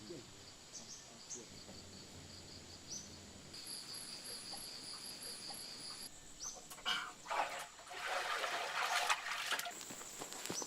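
Insects, crickets or similar, chirping with a steady high buzz and a pulsing trill in the middle. Near the end a harsh, noisy rushing sound lasts about two seconds and is the loudest thing heard.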